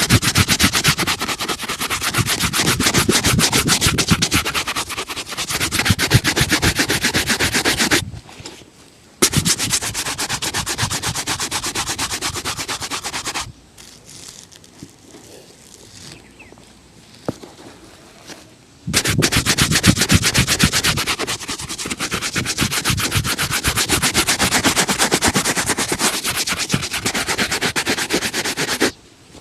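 Rapid back-and-forth buffing of a leather shoe during a shoe shine, a fast steady rubbing in three long spells, broken by a short pause about eight seconds in and a longer quiet stretch from about 13 to 19 seconds.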